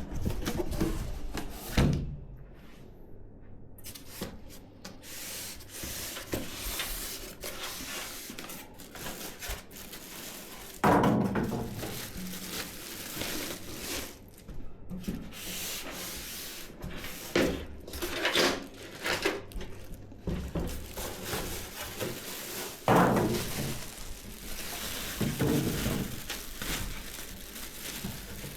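Hands handling PC parts and their packaging: irregular rubbing and scraping, with a few louder knocks.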